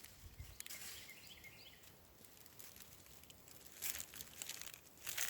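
Quiet outdoor ambience with two brief rustling sounds, one just before four seconds in and one near the end.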